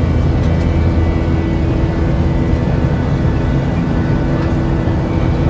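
Steady aircraft engine drone with a few constant hums over it.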